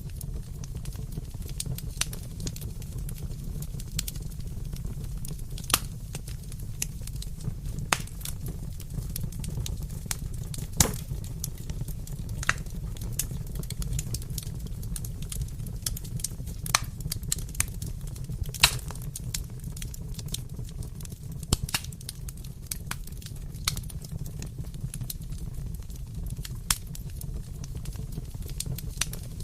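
Wood fire in a fireplace burning with a low steady rumble and irregular sharp crackles and pops, a few louder snaps among them.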